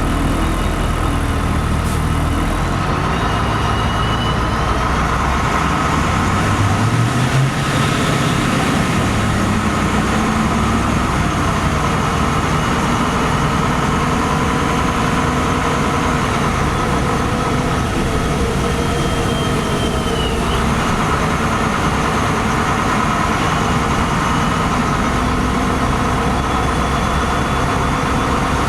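LiAZ-5256 city bus heard from inside the passenger cabin while riding: steady engine and road noise, with the engine pitch rising about seven seconds in and then holding steady.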